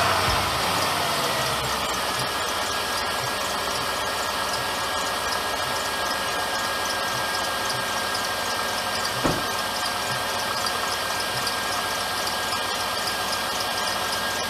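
A 2001 Jeep Grand Cherokee WJ's 4.7-litre V8 idling steadily under the open hood, with a steady high squeak from the engine's drive belt. A single brief thump comes about nine seconds in.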